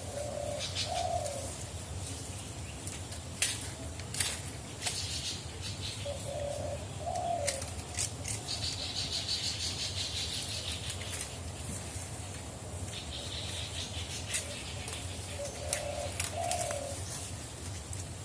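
A dove cooing: a low two-part coo phrase repeated three times, about eight to nine seconds apart. Scattered sharp clicks and patches of high hiss sound between the phrases.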